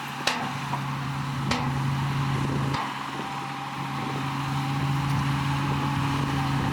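Heavy diesel earthmoving engine running steadily, its pitch stepping slightly a couple of times, with a few sharp metallic knocks in the first three seconds.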